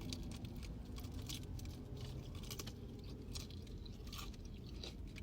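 A person chewing fried food close to the microphone, with wet lip-smacking and irregular crunchy clicks.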